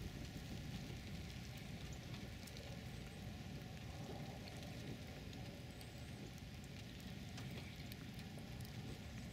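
Faint low rumble of a vehicle on the road, with light scattered ticks of heavy snow striking it.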